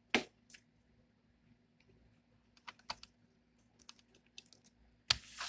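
Scattered small clicks and taps of fingers handling a laptop's fan cable connector and plastic parts, with a sharp click just after the start and a louder cluster near the end.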